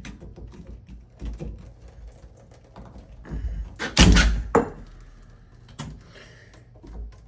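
Small clicks and handling noises as a freed bonnet nut is turned off a Delta shower valve, with a louder knock about four seconds in.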